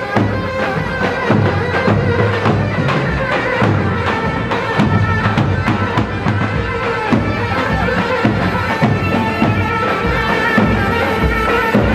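Live folk music for a halay line dance: a sustained melody over a steady, regular drum beat.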